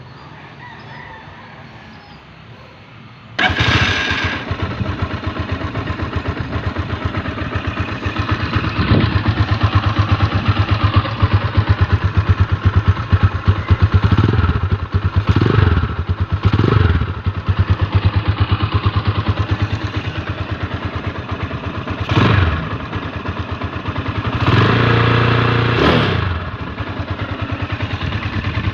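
Sigma 250 motorcycle engine on a 34mm racing carburettor, starting suddenly about three seconds in. It then runs at idle with repeated throttle revs, several short blips and one longer rev near the end. It picks up cleanly without misfiring, showing the carb fit works with the stock airbox kept.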